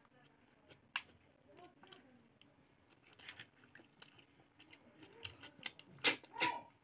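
A person chewing a mouthful of pork and rice, making short wet clicks and lip smacks at irregular intervals; the loudest pair comes near the end.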